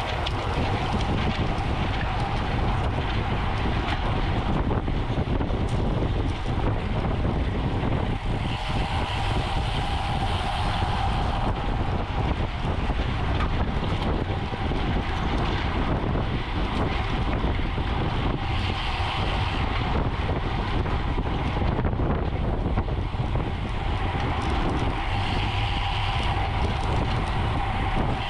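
Steady wind rush over the microphone while riding a racing road bike, with road and drivetrain noise and a steady hum underneath.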